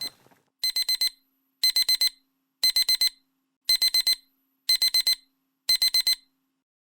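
Digital timer alarm beeping: six bursts of four quick high-pitched beeps, about one burst a second, marking the end of a 30-minute study session.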